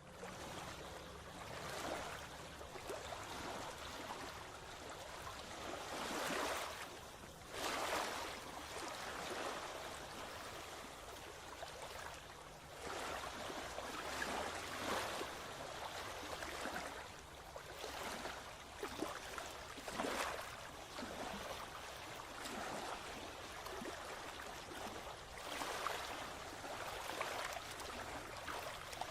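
Water rushing and lapping: a steady hiss that swells and eases every second or two.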